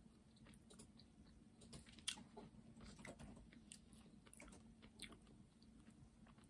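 Faint chewing of a soft, sour belt gummy candy: scattered quiet mouth clicks at irregular intervals over a faint steady low hum.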